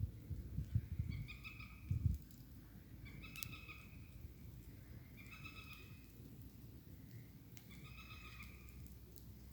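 An animal call, a short buzzy note repeated four times about two seconds apart, with low rumbling and thumps in the first two seconds.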